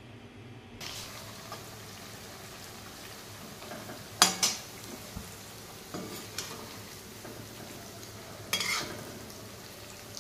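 Namak pare dough pieces deep-frying in hot oil in a metal wok, a steady sizzle starting about a second in. A metal spoon clanks and scrapes against the wok a few times as the pieces are stirred, loudest a little before the middle.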